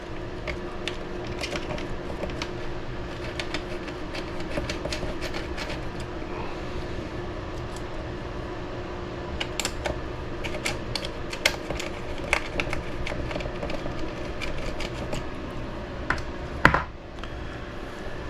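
Scattered light clicks and taps of small screws, parts and a hex driver being handled while the motor is loosely mounted in an RC buggy's clamp-style motor mount, over a steady hum; one sharper click near the end.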